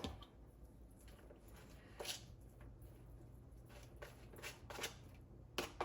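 Faint kitchen handling sounds: a few soft rustles and light taps as flaked saltfish is added to a mixture for fritters, over a low steady room hum.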